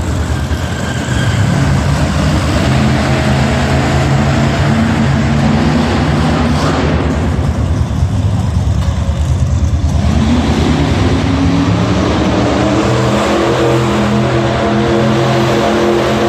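A car engine running loud and revving. Its high end drops away about seven seconds in, and its pitch climbs again about three seconds later.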